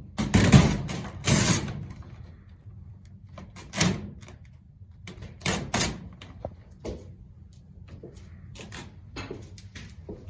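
A series of irregular knocks and clunks, like things being handled or a door moving, over a low steady hum. The two loudest come in the first two seconds, and lighter ones are scattered after.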